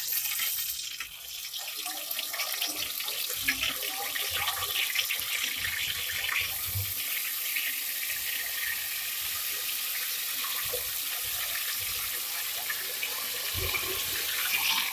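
Marinated chicken sizzling in hot oil in a metal handi, a steady hiss full of fine crackles as the pieces and masala are tipped and scraped in from a bowl.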